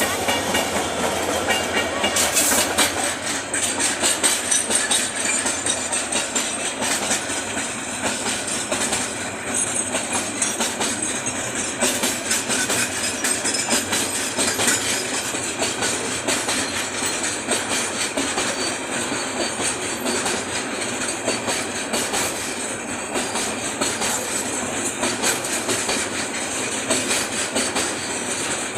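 Train running on the rails, its wheels clattering over the rail joints in a steady, continuous rush.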